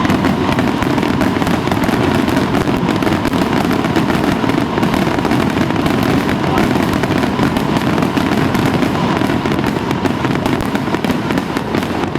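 Firecrackers crackling in a dense, continuous run of rapid loud pops that does not let up.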